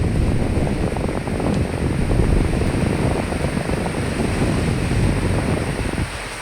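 A strong gust of wind rumbling over a steady hiss of rain. The gust dies away about six seconds in, leaving the rain.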